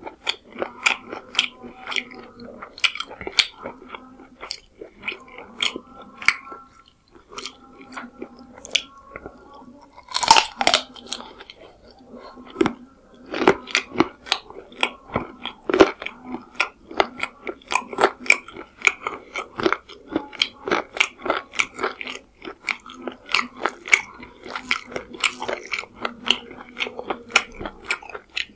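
Close-miked chewing and wet mouth sounds of eating chicken curry and pulao rice by hand: a dense run of quick smacks and clicks, with one louder burst about ten seconds in.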